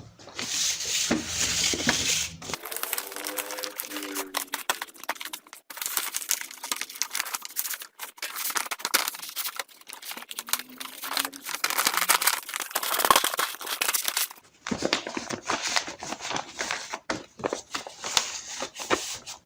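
Crinkling and rustling, like paper or plastic being handled, in several long stretches with brief pauses, and two short pitched sounds that bend in pitch.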